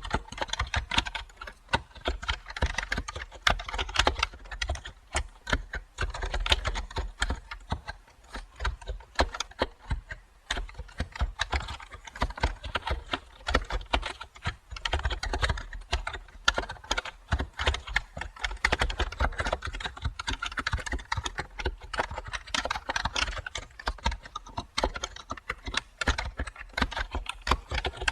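Computer keyboard being typed on continuously, a fast, uneven stream of key clicks with brief pauses between runs.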